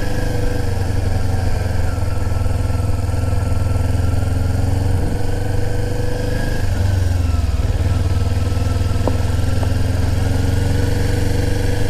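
Sport bike engine running steadily at low speed in first gear, heard from on the bike, with a brief dip in engine pitch about halfway through.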